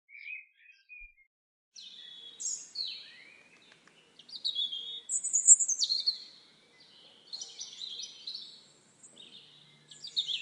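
Several small birds chirping and singing at once, high, quick overlapping notes. A couple of single chirps come first, then the chorus thickens about two seconds in.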